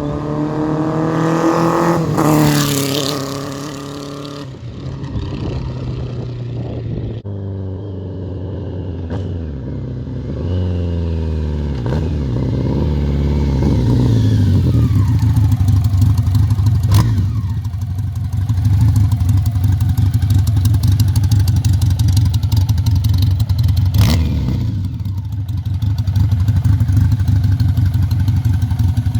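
1985 BMW K100's inline four-cylinder engine running through its exhaust: it revs up at the start, drops in pitch in several steps in the middle, then runs steadily for the rest, with a few sharp clicks.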